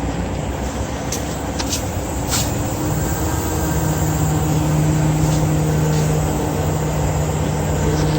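Heavy diesel engine running, with a steady low drone that grows louder about three seconds in, and a few sharp clicks.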